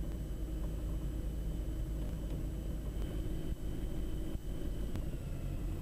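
Steady low drone of the Diamond DA42 NG's two Austro turbodiesel engines and propellers at low power, heard in the cockpit during the landing rollout. A faint, thin high whine runs steadily above it.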